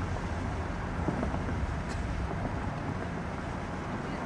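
Steady low rumble of a moving vehicle's engine, with wind buffeting the microphone.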